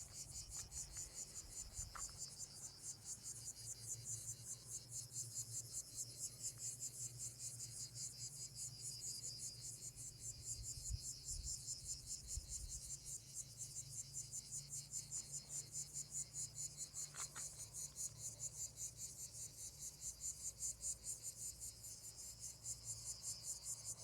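Cicadas chorusing: a steady, fast-pulsing high buzz.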